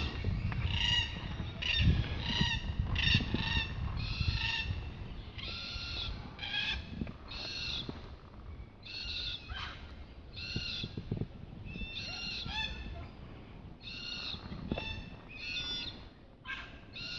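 Birds calling: a long run of short, pitched calls, one after another, with a low rumble underneath.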